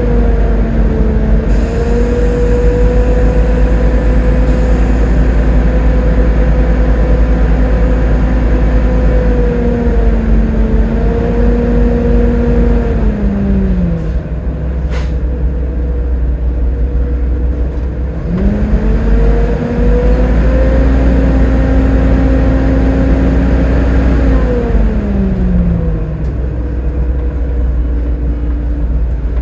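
Volvo B7TL double-decker bus running, with a deep engine rumble and a whining drivetrain note that climbs and holds steady as the bus gets under way, drops away about thirteen seconds in as it slows, climbs again about eighteen seconds in and falls again near the end. A single sharp click sounds about fifteen seconds in.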